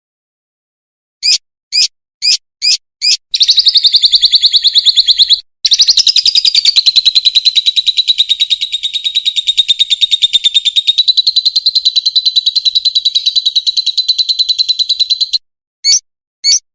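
A songbird singing: five short separate notes, then a fast, even trill of rapidly repeated high notes that breaks briefly and runs on for about ten seconds, then two more short notes near the end. It is the rapid-fire 'tembakan' style of song used in masteran recordings for training cage birds.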